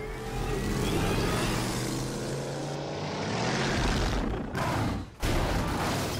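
Film sound of the Tumbler Batmobile's engine revving up and rumbling at speed, its pitch rising over the first couple of seconds. The sound drops away sharply twice near the end, then comes straight back.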